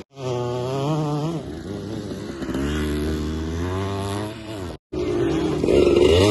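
Motocross dirt bike engines revving, the pitch rising and falling. The sound drops out for a moment right at the start and again about three-quarters of the way in.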